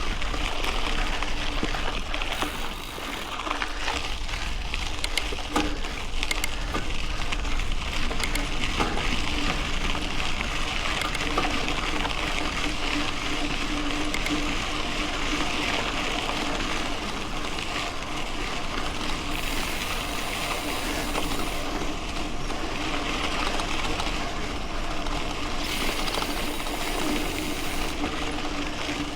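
Mountain bike rolling along a dirt road: a steady rush of tyres on gravel, with scattered small clicks and rattles from the bike and a steady low hum.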